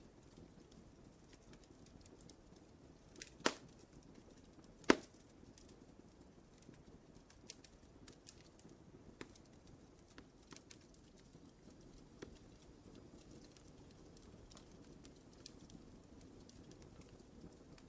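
Wood fire crackling: scattered small snaps over a soft low hiss, with two much louder pops about three and a half and five seconds in.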